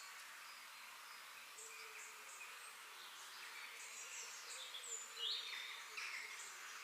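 Several birds chirping and calling over a steady hiss of background noise, with one louder, sharper call a little past five seconds in.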